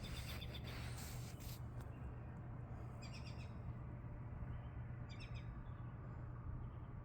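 Small birds chirping in short, quick runs of high notes, one at the start, one about three seconds in and one about five seconds in, over a steady low background hum.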